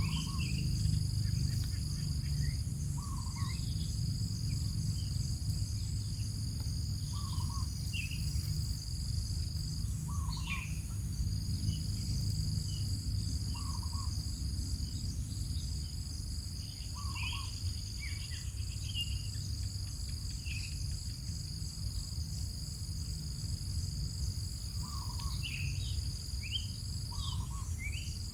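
A steady high insect trill with a few short breaks, and short quail chirps every two to three seconds, some lower and some higher-pitched. A steady low rumble runs underneath.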